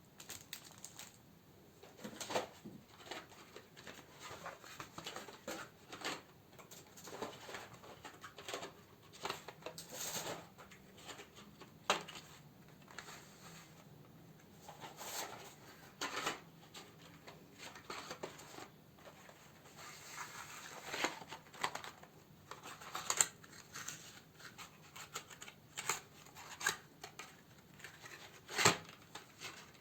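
Plastic and paper packaging crinkling and rustling as candles are handled and sorted, with irregular clicks and taps and a few sharper, louder clicks.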